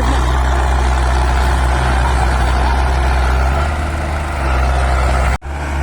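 Heavy diesel engine running steadily with a deep low hum, working a loaded sugarcane trolley out of a field. The sound dips slightly a little past halfway and drops out for an instant near the end.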